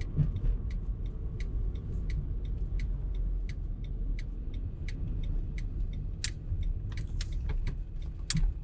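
A car driving, with a steady low rumble of road and engine noise. Over it runs a series of light clicks or rattles, two or three a second, with a couple of louder ones near the end.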